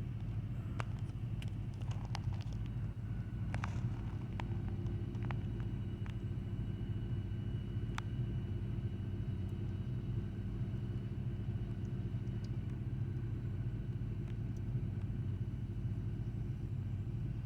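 Truck engine idling steadily, a low even rumble, with a few faint clicks over it.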